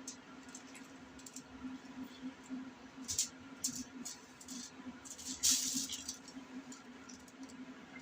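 A man eating a smoked chicken leg: wet chewing and lip-smacking clicks, a cluster about three seconds in and a louder half-second smack about five and a half seconds in, over a steady low hum.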